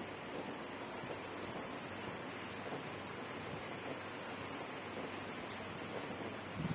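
Steady rain falling at night, an even hiss, with a thin, steady high-pitched tone above it.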